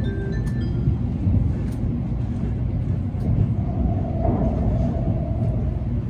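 Tokaido Shinkansen car interior: the steady low rumble of the train running on the line.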